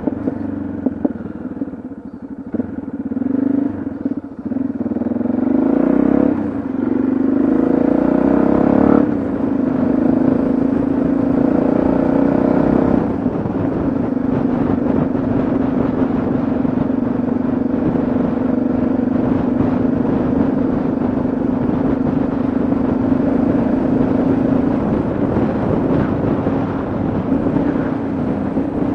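Yamaha XT660Z Ténéré's single-cylinder engine under way. Its pitch rises and steps through gear changes over the first several seconds, then it runs at a steady cruising speed.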